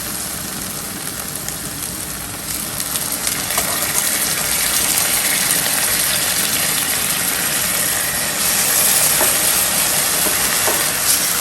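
Onion and sauce sizzling in a hot frying pan just after soy sauce and vinegar go in: a steady hiss that grows louder about eight seconds in, with a couple of light clicks near the end.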